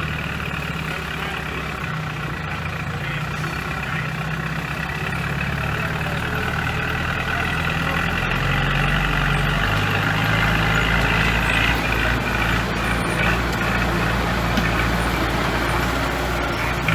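Heavy diesel engine of construction machinery running steadily, its low note shifting in steps about halfway through and growing a little louder toward the end.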